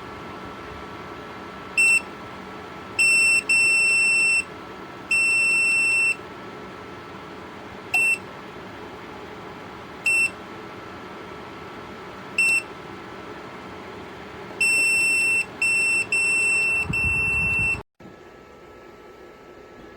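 Electric space heater's control-panel beeper sounding eleven beeps, all at the same high pitch. Four are short. The rest are held for up to about a second and come in two clusters, one early and one near the end. A steady hum runs underneath and stops abruptly near the end.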